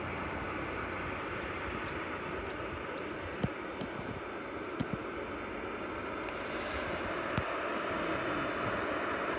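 Aircraft engine noise: a steady rushing that grows a little louder near the end, with a few sharp clicks over it.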